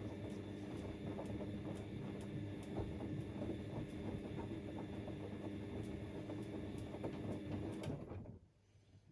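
Siemens Extraklasse XLs 140 A washing machine running in its wash cycle: a steady motor hum with many small clicks and knocks from the turning drum, stopping suddenly about eight seconds in as the drum pauses.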